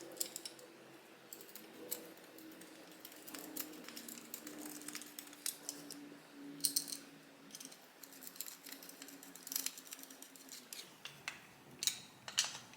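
Light metallic clicks and rattles from small carburetor linkage parts being handled and fitted, scattered irregularly. A faint steady hum lies underneath and stops near the end.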